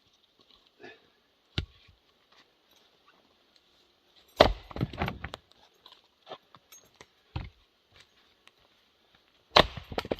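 Chunks of Douglas fir firewood knocking and clattering as they are handled and dropped: four heavy knocks, the loudest about four and a half seconds in with a short clatter after it, and another near the end.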